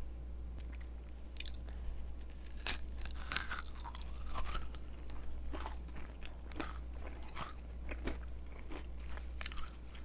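A person biting and chewing a glazed yakgwa, a Korean fried honey cookie, with irregular crisp crunches.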